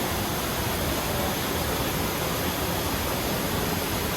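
Swollen river water rushing over rocks, a steady even rush with no breaks.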